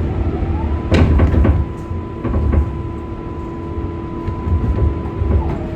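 Inside an R188 subway car under way: the electric propulsion whines, climbing in pitch in the first second and then holding one steady note over the running rumble, with several knocks of the wheels over rail joints. Near the end the whine drops in pitch and begins climbing again.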